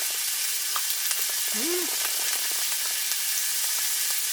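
Meat sizzling on a hot grill, a steady crackling hiss. A brief low rising-and-falling tone sounds about one and a half seconds in.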